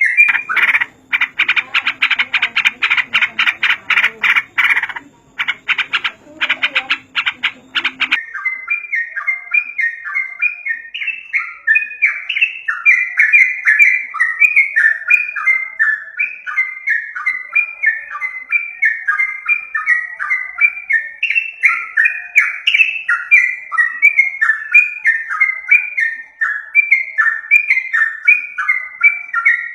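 Yellow-vented bulbul (trucukan) calls. For the first eight seconds a fast, dense rattling chatter runs over a low hum. After that comes a steady stream of short, bright falling notes, several a second.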